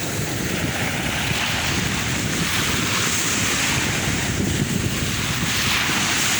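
Sea waves washing on the shore, the hiss swelling twice as waves break, with wind rumbling on the microphone.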